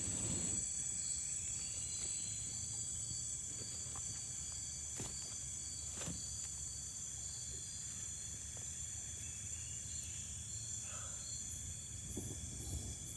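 Crickets and other insects chirping in a continuous high chorus, one of them pulsing about twice a second, with two faint knocks near the middle.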